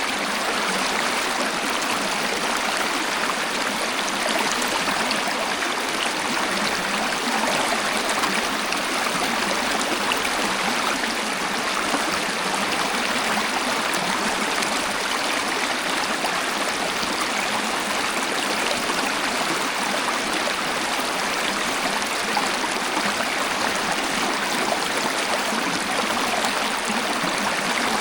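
Waterfall rushing and splashing: a steady, unbroken wash of falling water with little deep rumble.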